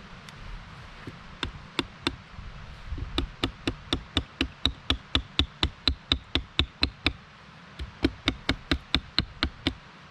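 Wood struck sharply against wood, like a baton knocking on a stick: a few single knocks, then two fast runs of about four to five strikes a second, separated by a short pause.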